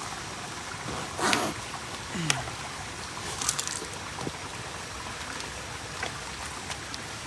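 Steady running water of a stream, with a few brief rustles and knocks about one, two and three and a half seconds in.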